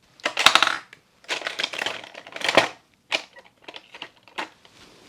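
Crinkly plastic being handled in several short crackling bursts, like cosmetic packaging rustled and crumpled.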